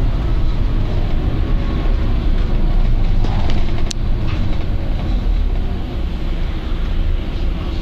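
Volvo B9TL double-decker bus's engine and running gear, a steady low drone with scattered rattles and a sharp click about four seconds in.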